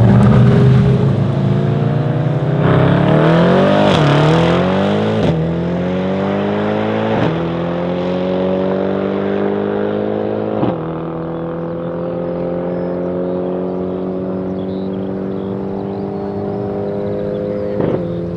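Tuned high-horsepower car accelerating flat out, its engine note climbing through each gear with a sharp drop at every upshift: five shifts, each gear lasting longer than the one before. The sound grows fainter and duller as the car pulls away.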